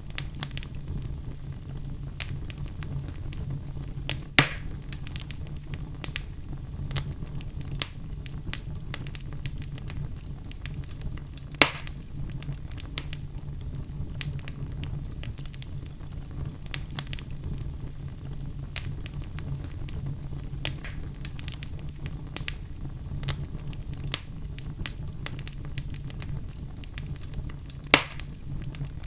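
Logs burning in a fireplace: frequent small crackles over a steady low sound of the flames. Three sharper, louder pops stand out: about four seconds in, near the middle, and near the end.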